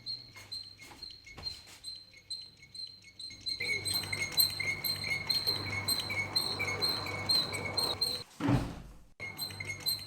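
Short, high-pitched squeaks repeating about twice a second, over a faint rustling from about a third of the way in, then a brief whoosh near the end.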